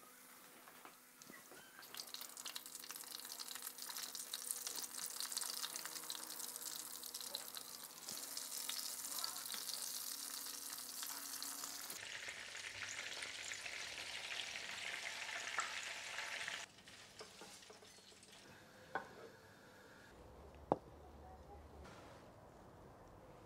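Breaded jalapeño poppers deep-frying in hot oil in a pan: a steady, dense sizzle that swells about two seconds in as a popper goes into the oil. It stops abruptly about two-thirds of the way through, leaving quieter sound with a couple of sharp clicks.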